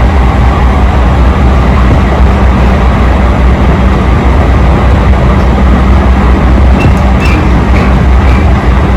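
Train running at speed, heard from inside the carriage as a loud, steady rumble. A few faint high ticks come near the end.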